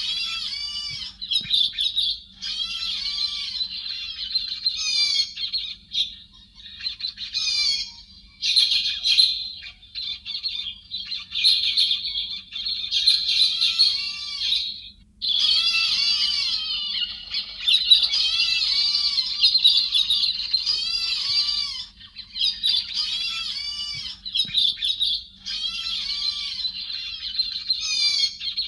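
Héc xoan bird calls played as a trapping lure: long runs of rapid, arched whistled notes that rise and fall, broken by short pauses. A faint steady low hum runs underneath.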